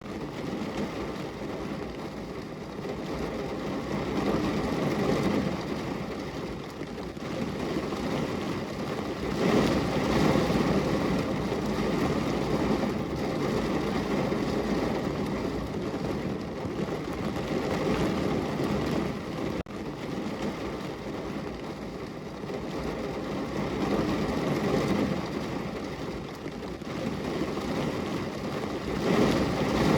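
Super heavy rain pouring down, a dense continuous roar that swells and eases every few seconds.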